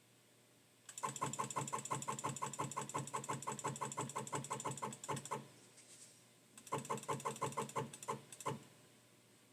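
Rapid, evenly spaced mechanical clicking, about ten clicks a second, in two runs: a long one lasting about four seconds and a shorter one near the end.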